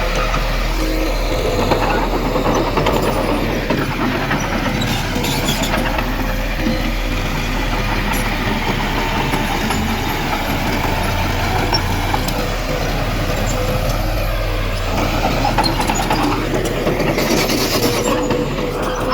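Diesel engines of heavy earthmoving machinery running under load, the engine pitch rising and falling, over a steady whine. A short hiss about a second long comes near the end.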